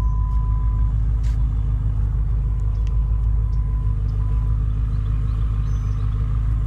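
Car engine idling steadily with a low rumble. A faint thin high tone sounds briefly at the start and again about three to four seconds in.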